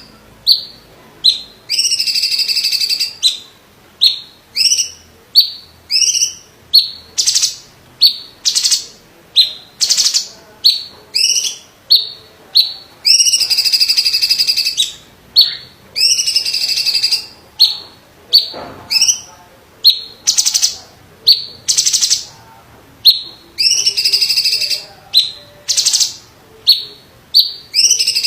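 Cucak ijo (green leafbird) of the 'cungkok' song type singing loudly. Long held, buzzy notes of about a second alternate with runs of short, sharp whistled notes, repeated over and over.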